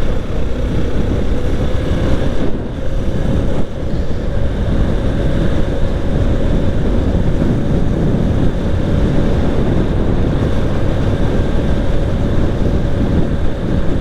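Strong wind buffeting the microphone, with a motorcycle running steadily underneath and a faint steady whine.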